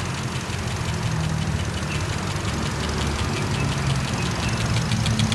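An engine idling steadily with a low hum, over a rapid, even ticking that grows clearer near the end.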